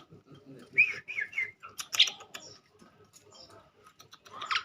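Pied starling (jalak suren) calling in short, quick chirps and whistles with scattered clicks, and one louder call near the end.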